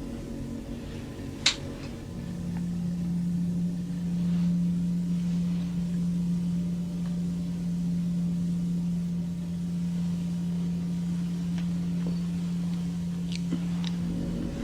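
A steady low hum with a sharp click about a second and a half in; about two seconds in a deeper, stronger single-pitch drone takes over and holds steady until near the end.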